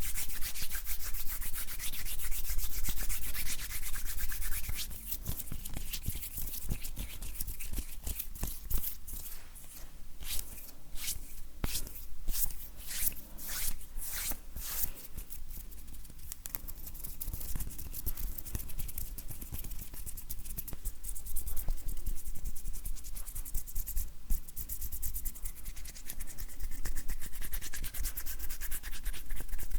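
Dry bare hands rubbing and stroking against each other close to the microphone, a soft skin-on-skin rustle with a run of quicker, sharper strokes about a third of the way in.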